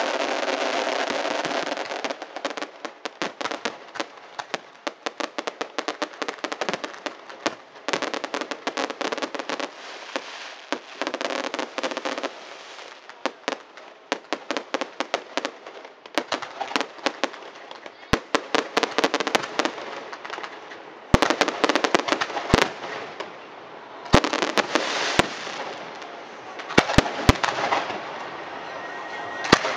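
Aerial fireworks display: dense, rapid crackling pops, joined by louder, separate sharp bangs in the last third. A steady rushing noise fills the first two seconds.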